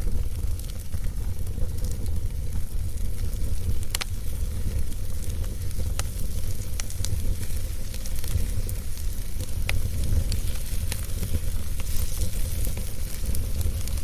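Fire burning in a fireplace: a steady low rumble and hiss of the flames, with scattered sharp crackles and pops, the clearest about 4, 6 and 10 seconds in.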